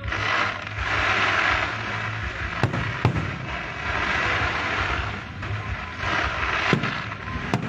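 Fireworks going off: a continuous dense crackling hiss, with single sharp bangs about two and a half and three seconds in and twice near the end.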